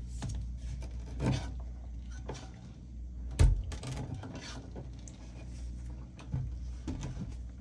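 A Vissani beverage cooler that is not cooling, freshly plugged in, with a steady low hum and scattered knocks, and one loud sharp click about three and a half seconds in. This is the clicking the unit makes while its compressor fails to come on.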